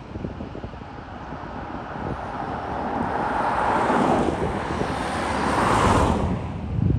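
Jet airliner engines passing, a loud rushing roar that swells twice, about four and six seconds in, with wind buffeting the microphone.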